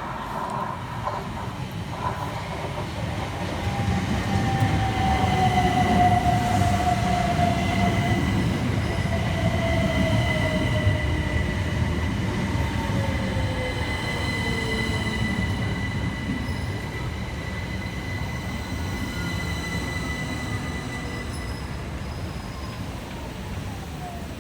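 Class 377 Electrostar electric multiple units running into a station and slowing: a rumble of wheels on rail that builds and then eases, a steady high-pitched squeal, and an electric motor whine that falls slowly in pitch as the train brakes.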